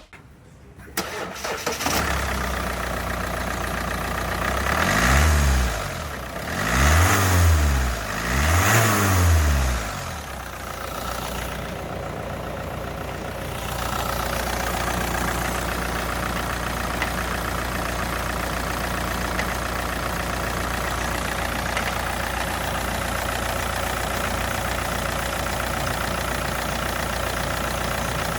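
2017 Kia Sportage engine starting, revved three times in quick succession, then settling to a steady idle.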